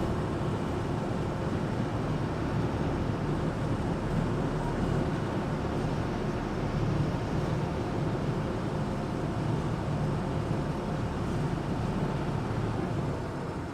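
Engine of an amphibious Duck tour vehicle running steadily as it cruises on the river, a continuous drone that eases slightly near the end.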